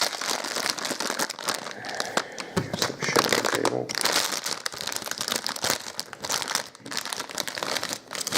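Plastic candy bag crinkling and rustling with many small crackles as it is handled and opened.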